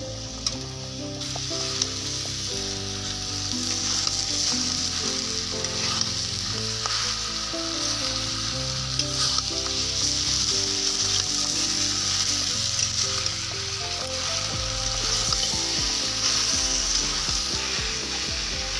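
Chicken pieces sizzling as they fry in hot oil in a pan, with a steady hiss and scattered clicks of stirring. Background music plays underneath.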